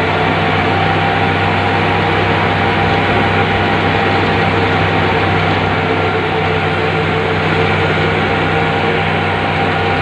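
Excavator's diesel engine running steadily, a constant loud drone with a steady higher tone above it.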